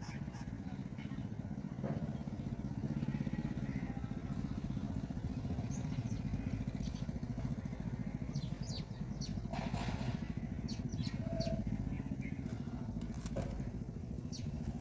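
A motor running steadily, a low even rumble, with a few short, thin, high chirps, likely the coucal chick's calls, about halfway through and near the end.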